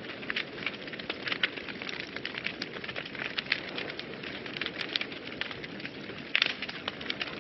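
Wood fire burning in a fireplace: a steady low rush of flame with irregular sharp crackles and pops, a brief cluster of louder pops a little after six seconds in.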